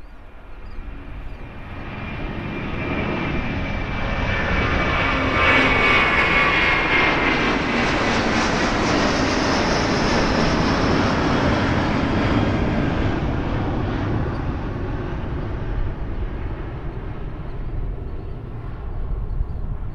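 Airplane flying past: its engine noise builds over the first few seconds, is loudest in the middle with a high whine sliding down in pitch, then slowly fades away.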